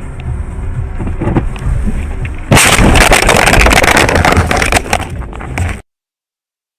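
Vehicle engine and road rumble inside a car, then about two and a half seconds in a sudden loud crash: a violent impact followed by about three seconds of crunching, scraping and rattling that stops abruptly.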